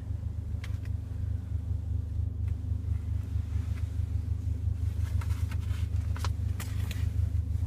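Steady low hum of the Mercedes-AMG GLA 45's turbocharged 2.0-litre four-cylinder engine idling, heard from inside the cabin, with a few faint clicks and rustles.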